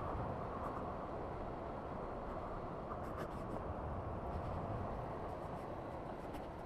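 Steady rushing of wind and tyre noise from a motorcycle coasting with its engine off, with a few faint clicks about three seconds in.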